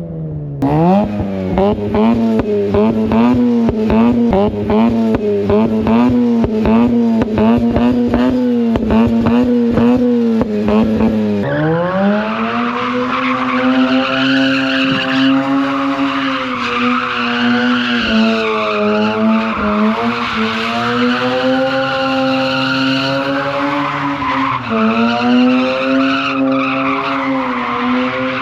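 Mazda RX-8's Renesis two-rotor rotary engine held at high revs, its note wavering rapidly up and down. About eleven seconds in, the revs climb and the tyres break into a steady squeal of a burnout, with the engine still running hard underneath.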